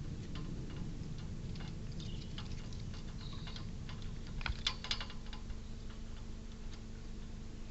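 Irregular small clicks and scratches of a squirrel working at a bird feeder, with a busier flurry of clicks about halfway through, over a steady low electrical hum.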